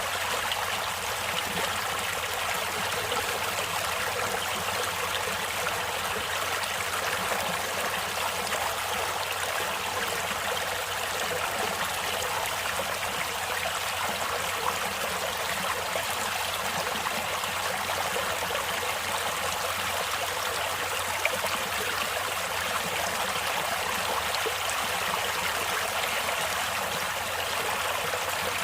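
Stream water flowing and trickling, a steady rushing splash.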